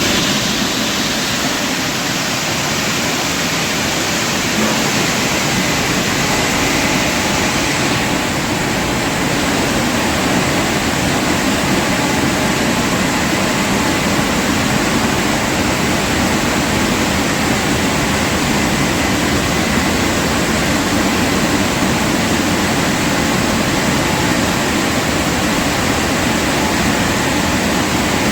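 Automatic car wash running: a loud, steady rushing noise that starts suddenly and holds unchanged, with a faint steady whine.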